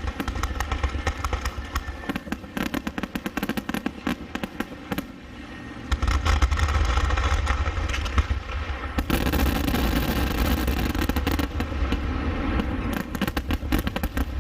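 Fireworks barrage: a dense run of rapid bangs and crackling, getting louder and heavier about six seconds in, typical of the finale of a fireworks show.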